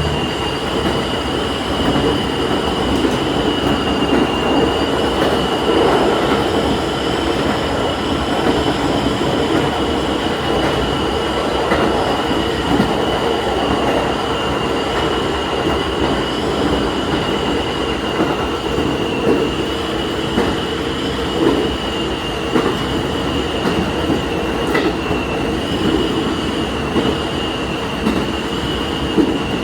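Diesel railcar running along the line, heard from the driver's cab: a steady rumble of engine and wheels on rail with a steady high-pitched whine over it.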